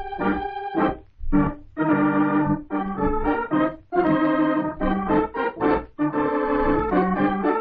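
Organ music: an organ playing a melody in short phrases of held notes, with brief pauses between them.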